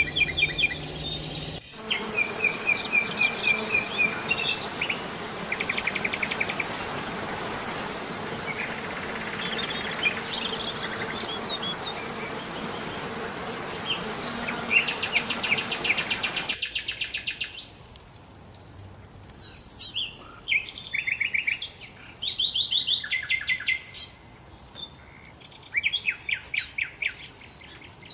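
Songbirds chirping and singing rapid trills, over a steady rushing noise that cuts off suddenly about halfway through, leaving the bird calls over a quiet background.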